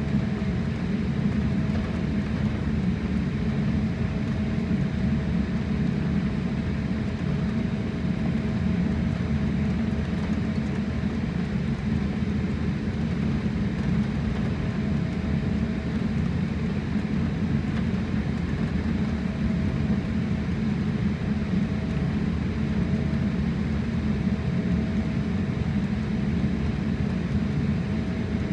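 Steady cabin noise of a jet airliner, its engines and the aircraft's motion heard from inside as a low, even rumble. A faint thin tone comes and goes over it.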